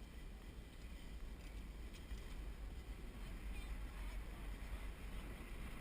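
Wind buffeting a GoPro's microphone during a bicycle ride: a steady low rumble with an even rushing noise, and a faint voice briefly audible in the background a little past halfway.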